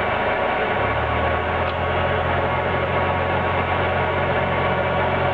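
Cessna 172's engine and propeller running steadily, heard as a constant drone inside the cabin, with a deeper low hum joining about a second in.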